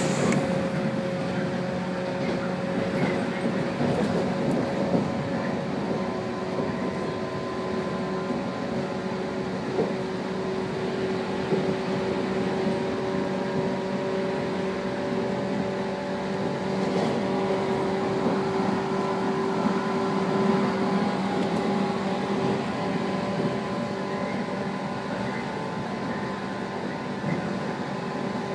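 Cabin of a 115-series electric train running at speed: a steady rumble of wheels on rail with a steady whine from the motors and gears.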